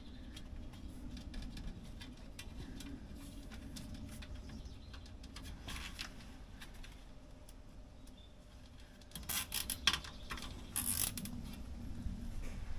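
Nylon zip ties being handled and fastened: scattered light clicks, with two short bursts of rapid ratcheting clicks about nine and eleven seconds in as ties are pulled tight, over a faint low hum.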